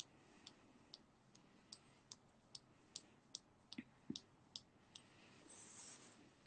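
Faint, regular clicking, about two and a half clicks a second, with a brief soft hiss about five and a half seconds in.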